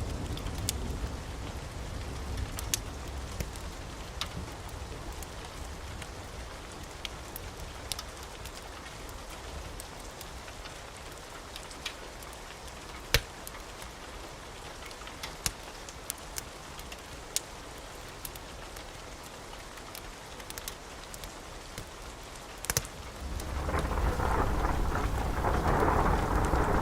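Wood fire crackling: a steady hiss with scattered sharp pops, growing louder near the end into a low rushing rumble of the flames.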